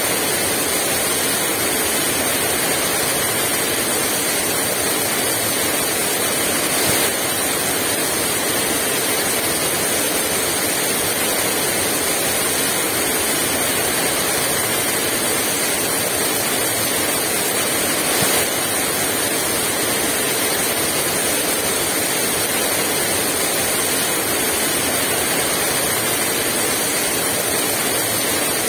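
Heavy rain falling in a steady, dense downpour with no gusts of wind, with a couple of brief louder knocks about seven and eighteen seconds in.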